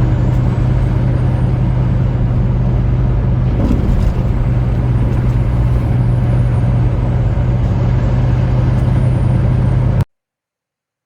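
Semi truck driving, its engine running at a steady drone over road noise. The sound cuts off suddenly near the end.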